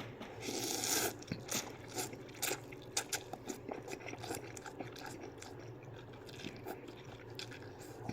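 A person eating ramen noodles in broth: a short slurp about half a second in, then soft chewing with many small mouth clicks.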